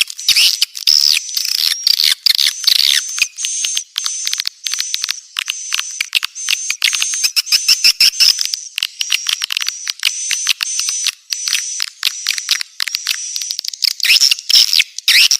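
Swiftlets twittering: a dense, unbroken run of rapid high chirps and buzzy trills. This is the swiftlet lure call played to draw the birds into nesting houses.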